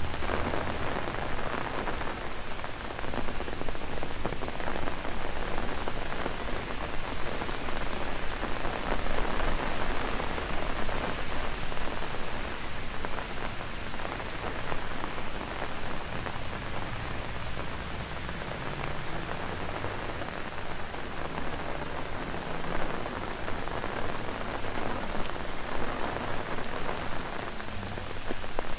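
Heavy rain pattering on an umbrella and the ground, with a steady high-pitched drone of cicadas.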